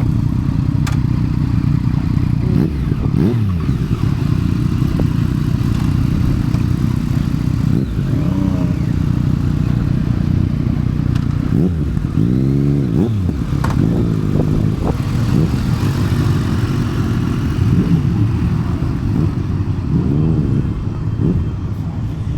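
Motorcycle engines running, with a steady low rumble under several bikes revving and riding past, their pitch rising and falling every few seconds.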